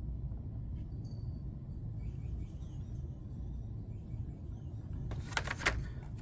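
Steady low hum in the background, with a short burst of plastic-and-card rustling about five seconds in as a carded Hot Wheels car is handled.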